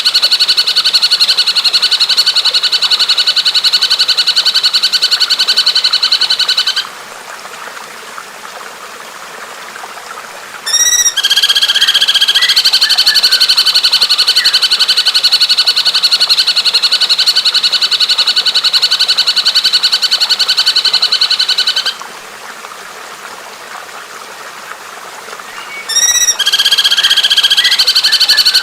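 Recorded birdsong: a fast, rattling trill held for several seconds at a time, broken twice by a pause with only a steady hiss, each pause ending in a brief burst of short call notes before the trill resumes.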